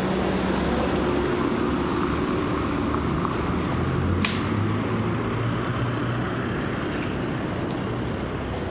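Street traffic noise: a motor vehicle's engine hums past in the middle over a steady rushing background, with one sharp click about four seconds in.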